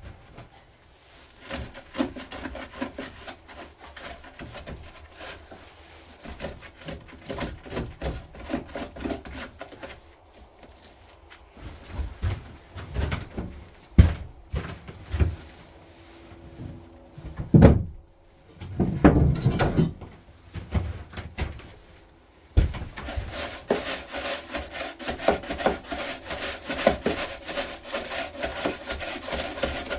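Scattered knocks and clunks of hand-tool work, then from about two-thirds of the way in a steady, fast scraping, as frozen grass and moisture residue are scraped out of the tractor's battery tray.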